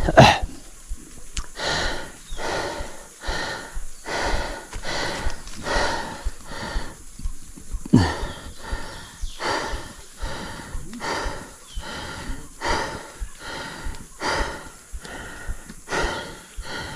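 A person breathing hard and fast, about one and a half breaths a second, with a louder voiced breath about eight seconds in. The panting comes from the strain of climbing a steep cliff ladder.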